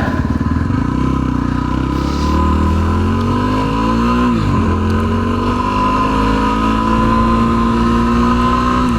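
Yamaha WR250R's single-cylinder engine accelerating on the road: its pitch rises for about four seconds, drops sharply at an upshift, then climbs slowly again in the next gear.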